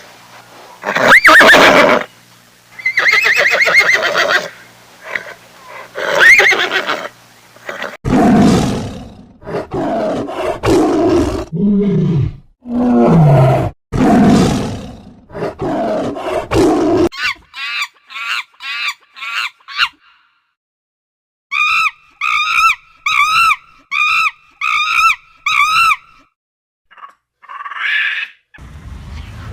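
A run of farm animal calls, led by a horse whinnying in the first seconds, followed by other loud calls. Later comes a rapid string of short calls, a brief pause, and then about seven evenly spaced, high, arching calls.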